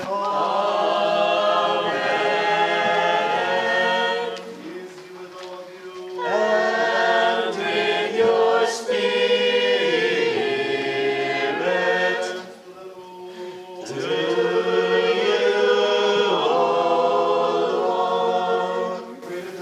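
Church choir singing a cappella in harmony, Ukrainian Catholic liturgical chant: three sung phrases with short pauses between them.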